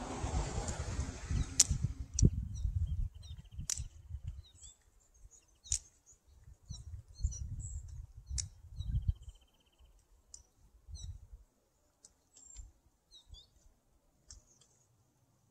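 Small birds chirping in short high calls, with a couple of brief buzzy trills. Low rumbling noise in the first few seconds fades out, and a few sharp clicks sound.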